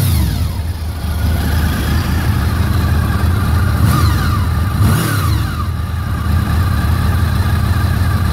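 Honda VFR800's V4 engine running at idle, blipped briefly about four and five seconds in, with the pitch rising and falling back to idle each time.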